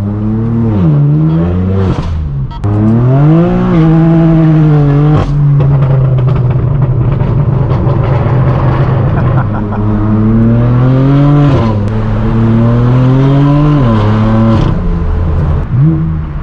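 Straight-piped BMW M4 F82's twin-turbo inline-six with an AWE Track exhaust, pulling through the gears: the pitch climbs and drops back at each shift in the first few seconds, holds steady for several seconds, then climbs again and drops near the end. A few sharp cracks sit on top, from the tune that gives pops and crackles.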